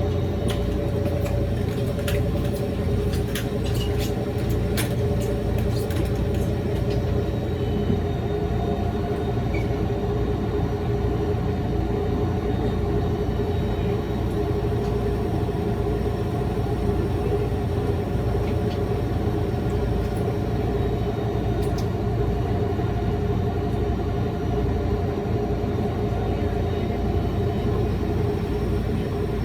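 Electric train running steadily, heard from inside the front car: a continuous low rumble with a steady hum or whine from the running gear. A few sharp clicks come in the first several seconds and again about two-thirds of the way through.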